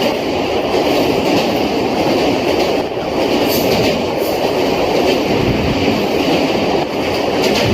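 Passenger express train running at speed, heard from aboard: a steady loud rumble of wheels on rails with a few low thuds.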